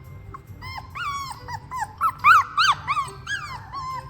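Three-week-old fox red Labrador puppy whining and squeaking in a string of short cries that rise and fall in pitch, several a second, loudest a couple of seconds in.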